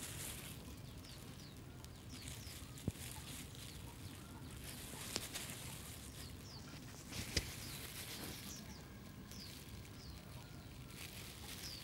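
Faint outdoor background with small birds chirping now and then in short, downward-sliding chirps, and three sharp clicks.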